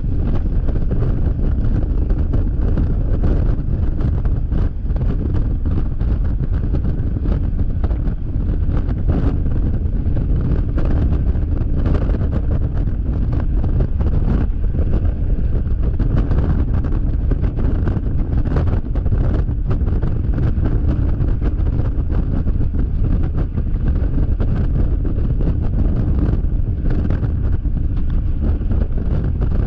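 Heavy wind buffeting an action camera's microphone on a Yamaha XMAX scooter at freeway speed. It is a steady, loud low rumble that flutters constantly.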